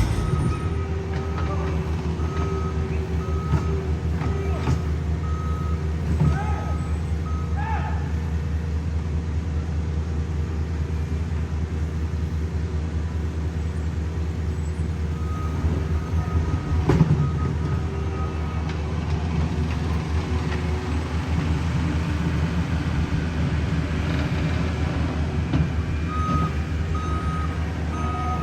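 Diesel engines of heavy paving equipment running steadily, with a vehicle's reversing alarm beeping in regular pulses for the first several seconds, again in the middle and near the end. A few metallic knocks, the loudest about two thirds of the way through.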